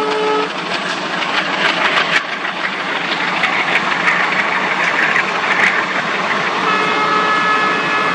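Passenger train coaches rolling past on the rails: a steady rush and clatter of wheels, with sharp clicks over rail joints through the middle. A locomotive horn chord cuts off about half a second in, and a steady high-pitched tone comes in near the end.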